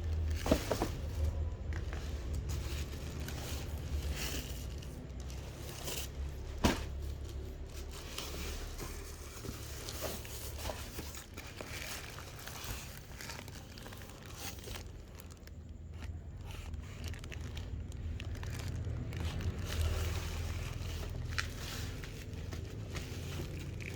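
Crinkling and rustling handling noise, with scattered clicks and a couple of sharper knocks over a steady low rumble.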